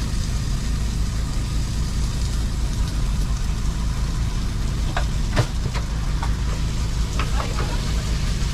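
Portable generator running at a steady hum, with a few sharp kitchen knocks and clinks over it, the loudest about five seconds in.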